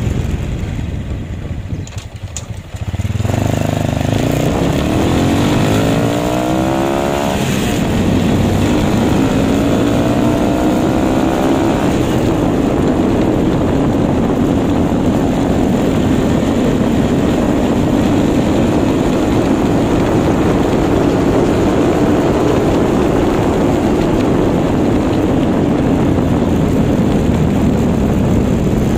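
Modified Honda XRM/RS125 single-cylinder four-stroke engine with a 57 mm big-bore kit, stage 2 cam and Suzuki Raider 150 exhaust, heard from the saddle while riding. It eases off for a couple of seconds, then accelerates with rising pitch through two gears, with a short break for the shift about seven seconds in, and holds a steady high-revving cruise.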